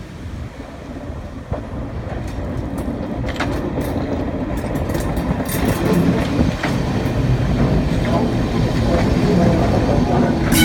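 A train of a British Rail Class 421 3CIG electric unit and a Class 73 locomotive approaching, growing steadily louder: a low rumble with wheels clicking over the rail joints from about three seconds in.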